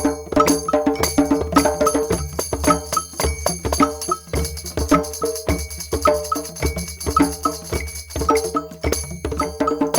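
Group drum jam: several drums struck in a busy, loose rhythm, with jingling bells over it that grow stronger about four seconds in.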